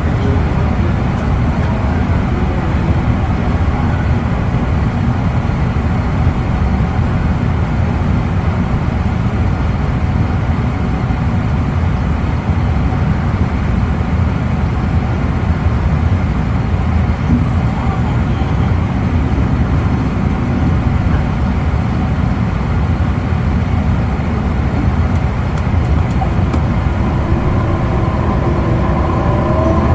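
Running noise inside an E259 series Narita Express motor car at speed: a steady, loud low rumble of wheels on the rails and the bogies under the floor. Near the end, whining tones come in and one of them rises in pitch.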